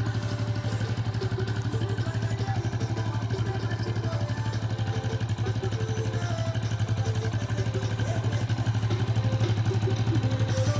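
Motorcycle engine running steadily, with an even, rapid pulsing beat.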